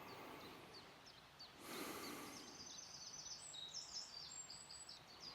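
Faint woodland birdsong: quick high chirps throughout, with a longer run of high notes in the middle. A brief soft whoosh comes about two seconds in.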